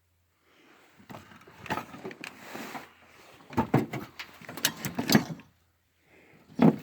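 Irregular clanks, clicks and rattles of tools and parts being handled during engine work on a truck, loudest in a cluster of knocks in the middle.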